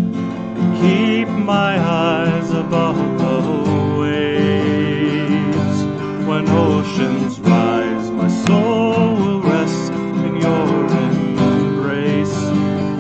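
Strummed twelve-string acoustic guitar accompanying a singing voice.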